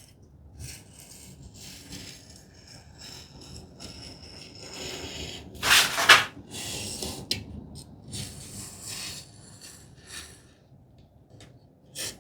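Masking tape being handled and rubbed down onto wooden tambour slats, with scratchy rustling throughout and a louder tearing, ripping sound about six seconds in.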